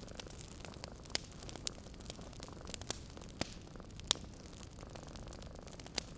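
Fireplace fire crackling: a steady soft hiss with about six sharp pops scattered through it.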